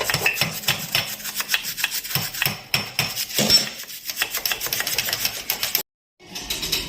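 Rapid scraping, rubbing and clicking as a dirty tractor diesel injection pump part is scrubbed clean by hand. The sound breaks off for a moment near the end.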